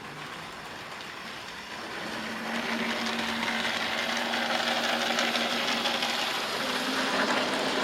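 00 gauge model train running on the layout track: a rattling mechanical noise with a steady motor hum, growing louder about two seconds in as it comes closer. The operator says it doesn't sound good and puts it down to something come off a mineral wagon.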